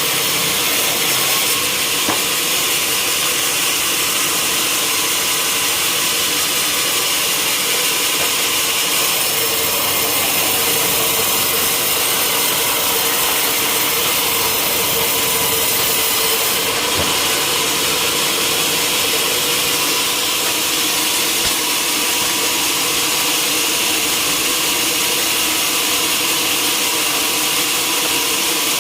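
Sawmill saw cutting through a log, a steady, unbroken noise that runs on without a pause.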